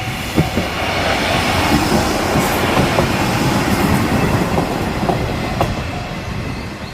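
A diesel train passing close by over a level crossing, its wheels clacking over the rail joints. The noise builds to its loudest around the middle and eases off toward the end. The crossing's warning bell dings steadily in the background and is heard again through the passing noise near the end.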